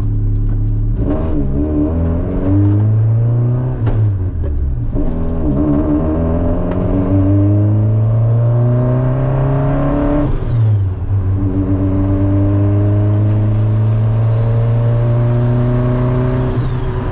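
Honda Civic engine pulling hard under acceleration, heard from inside the cabin. The pitch climbs steadily through each gear and drops sharply at two upshifts, about four seconds and ten and a half seconds in.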